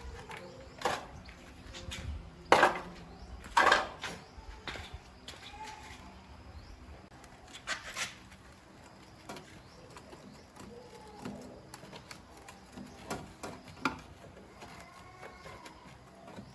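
Scattered clinks and knocks of hand tools and metal parts being handled during motorbike repair work, the loudest two about two and a half and three and a half seconds in. Faint bird chirps are heard in the background, most clearly near the end.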